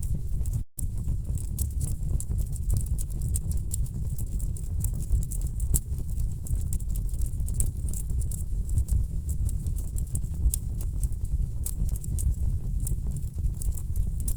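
Wood fire burning in a fireplace: a steady low rumble of flames with frequent sharp, irregular crackles and pops of the logs. The sound cuts out for a split second just under a second in.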